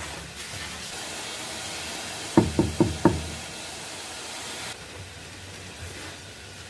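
Four quick, sharp knocks in under a second, about two and a half seconds in, over a steady hiss that cuts off suddenly later on.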